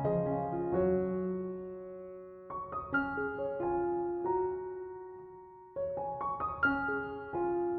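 Slow, gentle solo piano music: short clusters of notes struck and left to ring and fade, a new phrase beginning about every three seconds.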